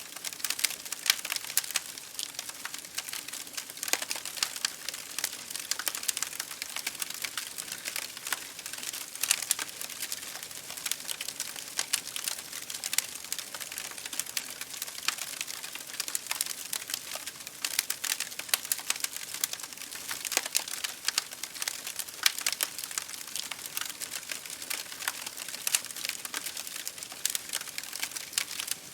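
Wood fire crackling in a fireplace, with dense, irregular pops and snaps, over a steady hiss of rain striking a window.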